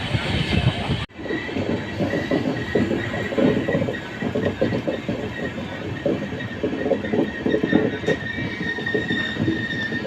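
LHB passenger coaches running over the rails, wheels rattling and clattering on the track, with a thin steady high squeal above the rumble. The sound cuts out sharply for an instant about a second in.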